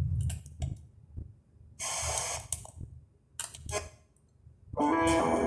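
Audioart AR-115MP car radio being tuned manually step by step on FM, playing through its speakers: two short bursts of static hiss with muted gaps between stations, then a station playing music comes in near the end.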